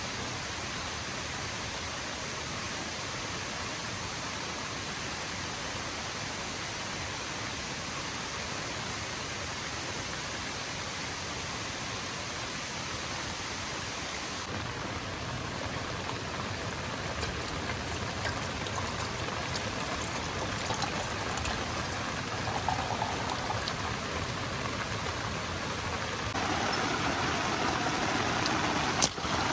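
Steady rush of falling water, a dense even hiss of rain and waterfall. The sound shifts abruptly about halfway through and grows louder a few seconds before the end.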